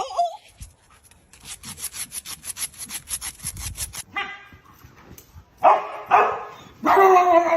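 A quick run of rasping, scratching strokes, about five a second, then a dog barking in drawn-out calls near the end.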